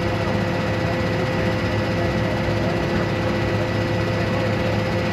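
A vehicle's engine running steadily, a constant drone with a few steady tones over an even rumble.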